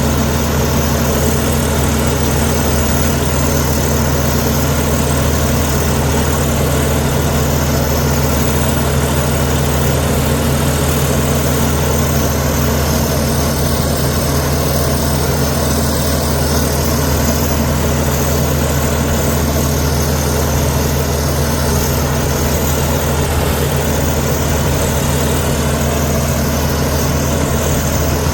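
Heavy diesel engine of earthmoving machinery running steadily at an even pitch, with no revving or load changes.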